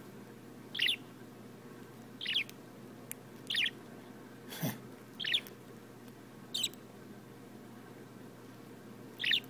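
A pet bird chirping: about six short single chirps, each dropping in pitch, spaced a second or more apart. There is a soft tap near the middle.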